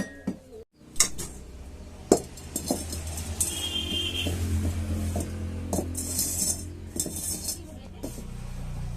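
Metal kitchen utensils clinking and knocking against pots, with a few sharp knocks and two stretches of scraping.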